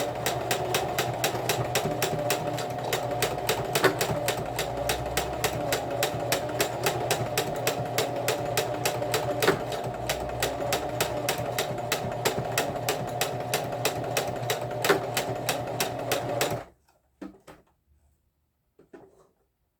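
Electric sewing machine stitching at a steady, fast, even pace, sewing together the overlapped ends of waistband elastic; it stops abruptly about 17 seconds in, followed by a few faint handling sounds.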